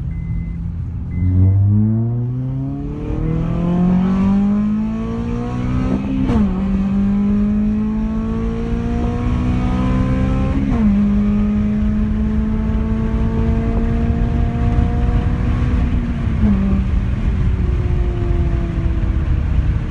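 Honda Civic Type R's four-cylinder engine, breathing through an aftermarket induction kit and a 63 mm exhaust with a branch manifold, accelerating hard. The engine note climbs and drops sharply at two upshifts, then holds nearly steady with one more drop near the end.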